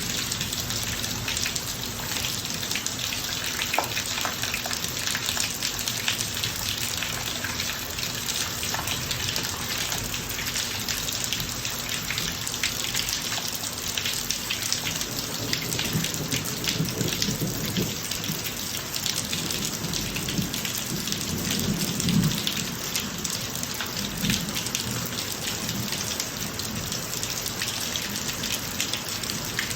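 Steady rain falling on a driveway, a dense patter of drops. In the second half a low rumble of thunder swells and fades.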